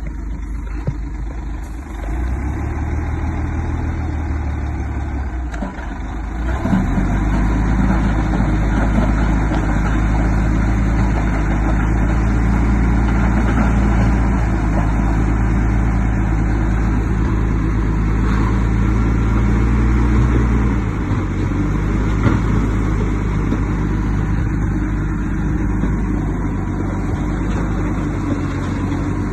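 Heavy earthmoving machine's diesel engine running. It rises in revs about two seconds in and again near six seconds, holds high until about twenty-one seconds, then settles back to a lower steady speed.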